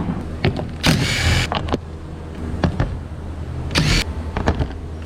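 Two short mechanical whirring bursts, about a second in and again near four seconds, with scattered clicks over a steady low hum.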